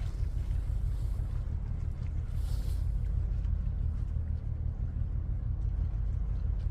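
Steady low rumble, with a brief hiss about two and a half seconds in.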